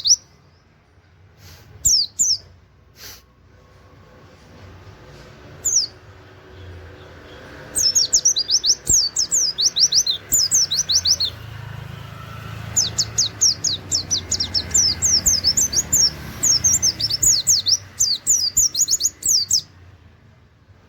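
A pleci (white-eye) singing in the rapid-fire 'nembak' style, a run of high 'wit wit' notes that each sweep quickly downward. A few single notes come in the first seconds, then two long fast runs, the second one longer.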